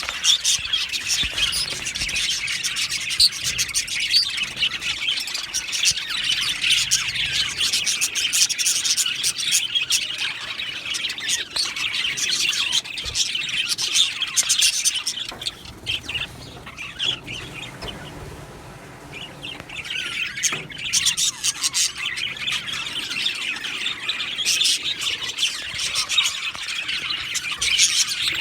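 A colony of budgerigars chirping and chattering all at once, a dense continuous twittering that thins out for a few seconds about halfway through before building up again.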